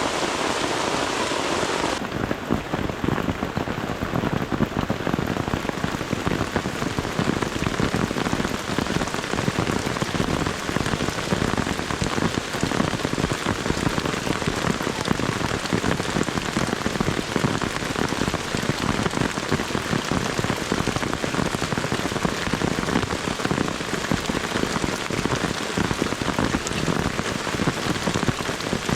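Heavy tropical rain pouring down steadily, a dense patter of countless drops; the sound turns duller about two seconds in.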